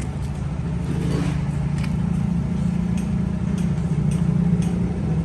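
Truck engine running steadily with a low, even pulse, growing slightly louder, with a few faint clicks over it.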